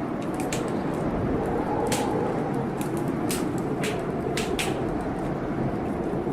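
Heavy wind blowing steadily, with a wood fire crackling over it in about ten sharp, irregular pops.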